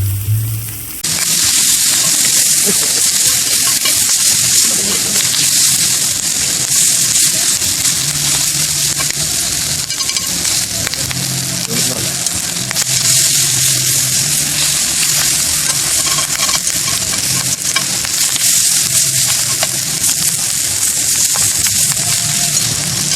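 Food sizzling steadily in a hot pan, starting abruptly about a second in.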